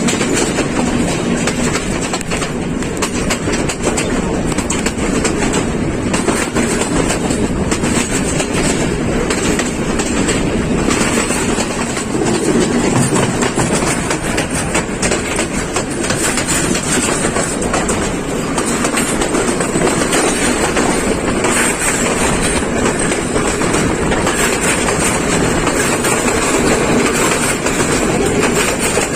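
The Colombo–Badulla Night Mail passenger train running along the line: a steady, loud rumble with constant wheel clatter and rattling over the rails.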